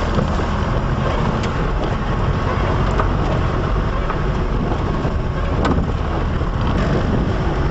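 Steady engine and road noise of a moving car heard from inside, with a low rumble and wind buffeting the microphone.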